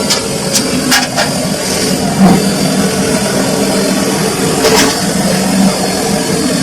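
Samsung washing machine running, a steady motor hum with about half a dozen sharp knocks scattered through it.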